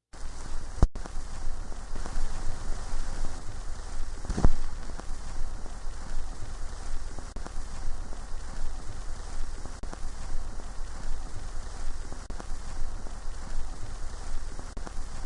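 Steady rain falling in a dense, crackly patter. There is a brief cut-out about a second in and one sharper, louder hit about four and a half seconds in.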